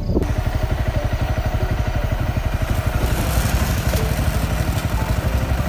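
Small motorcycle engine running hard, with rapid, even firing pulses and a rough noisy edge, steady throughout. It starts abruptly just after the opening instant.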